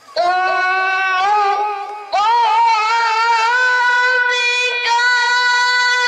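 A child reciting the Quran in melodic tilawah style. The first phrase has quick ornamented turns. About two seconds in, a new breath starts a higher phrase that settles into a long, steady held note.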